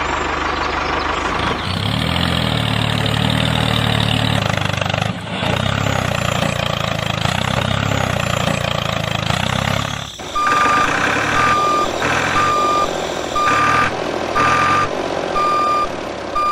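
Vehicle engine running steadily, then, about ten seconds in, a reversing alarm starts beeping about once a second over the engine.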